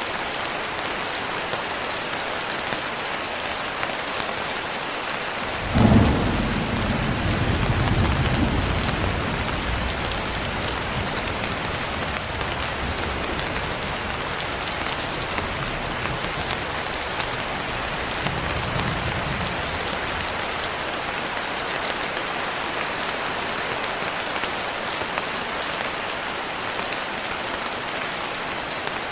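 Steady rain hissing throughout. About six seconds in a sudden thunderclap breaks and rolls off as a low rumble over several seconds. A fainter rumble of thunder follows near twenty seconds.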